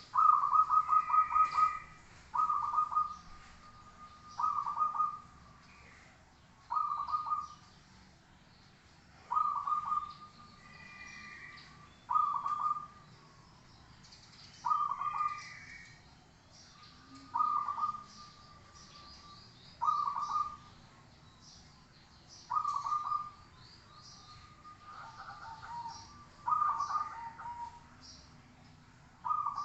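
Zebra dove (perkutut) cooing: a repeated, rapid, trilling coo about every two to three seconds, about a dozen calls in all. Fainter short high chirps from other small birds sound between them.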